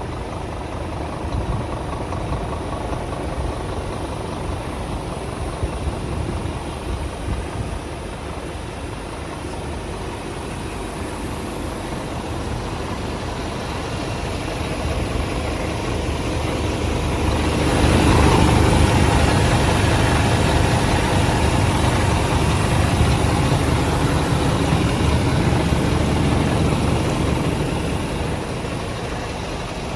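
Scania P230 truck's diesel engine running at idle. About halfway through it grows louder for roughly ten seconds, then settles back to idle.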